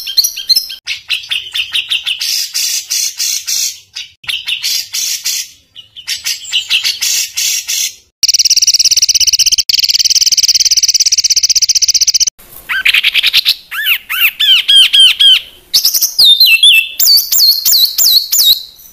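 Songbird song made of harsh, rapid rattling trills. About eight seconds in comes a long buzzy rattle lasting some four seconds, followed by quick swooping notes and then high repeated whistles: the rough 'tembakan' phrases used to tutor captive songbirds.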